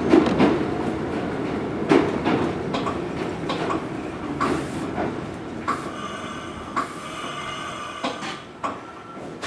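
Mizuma Railway 1000-series electric train heard from inside a motor car: running noise with scattered clicks of wheels over rail joints, growing quieter as the train slows toward a station. From about six seconds in, a steady whine of several high tones joins.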